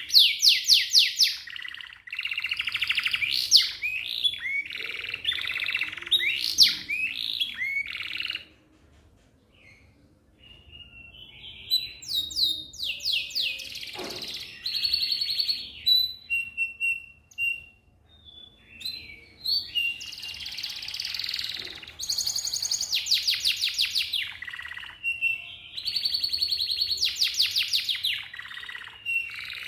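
Domestic canary singing fast rolls and trills, rapid repeated notes and held whistles. It falls silent for a couple of seconds about a third of the way in, then resumes.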